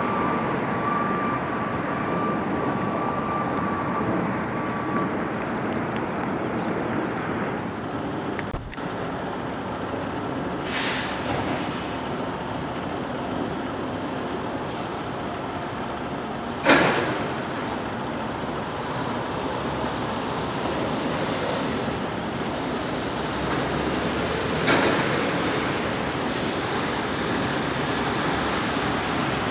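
McNeilus front-loader garbage truck running steadily, with a single sharp bang a little past the middle and short hisses about a third of the way in and near the end.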